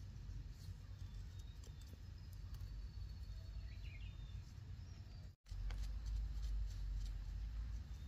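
Outdoor rural ambience: a few faint bird chirps over a steady low rumble. The sound drops out for an instant about five seconds in, and the rumble is louder after it.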